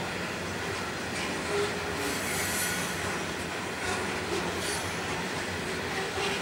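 Loaded coal train rolling steadily along the track, with a high squeal from the wheels about two seconds in and a fainter one near five seconds.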